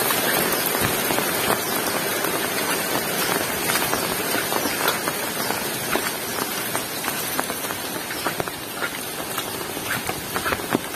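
Heavy rain falling: a steady hiss with many separate drops striking close by, easing slightly toward the end.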